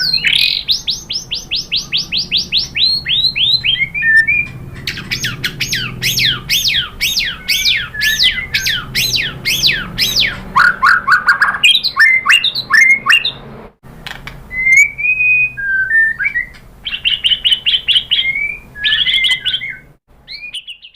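White-rumped shama singing a loud, varied song. It runs in long strings of rapid, repeated sweeping whistles, about three or four a second, broken by short warbled phrases, and stops shortly before the end.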